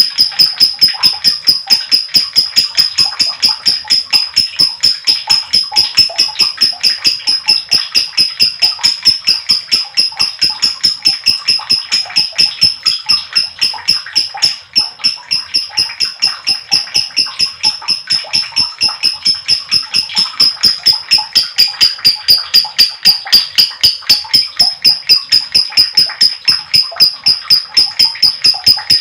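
Lovebird ngekek: a long unbroken run of rapid, evenly spaced, high-pitched chirps, the long chatter (ngekek panjang) prized in fighter lovebirds, with a brief falter about halfway through.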